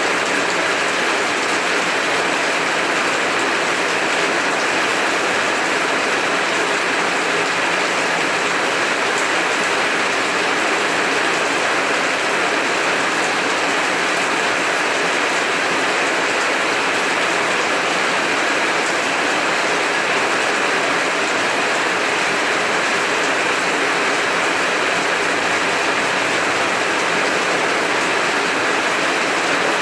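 Heavy rain falling steadily, a dense, even hiss with no break and no thunder.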